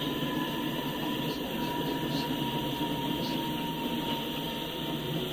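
Empty coal hopper cars of a Norfolk Southern freight rolling past, a steady rumble of steel wheels on the rails. A thin, faint high tone runs along underneath it.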